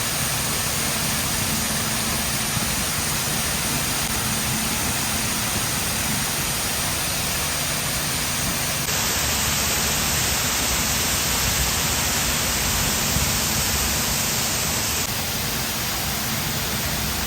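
Steady rushing noise of water falling down the rock face of a man-made waterfall. The hiss brightens a little between about nine and fifteen seconds in.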